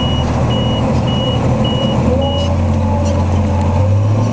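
Tractor engine running steadily under a high electronic warning beeper pulsing about twice a second; the beeping stops after five beeps, and the engine note rises slightly near the end.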